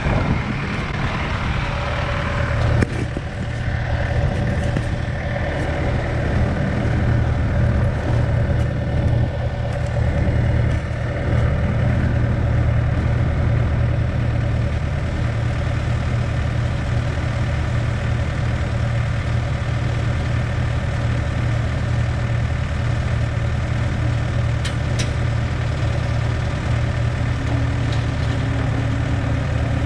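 Heavy-equipment diesel engine idling steadily, with a single knock about three seconds in.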